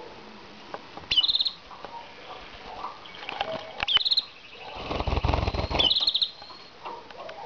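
Canaries giving three short, high trilled chirps, about a second, four seconds and six seconds in. Between the last two there is about a second of low rustling flutter.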